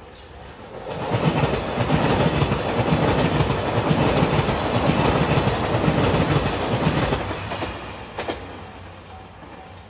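JR Shikoku 2700 series diesel express train passing close by at speed: the running noise rises about a second in, holds loud with wheels clicking over the rail joints, then fades after about seven seconds.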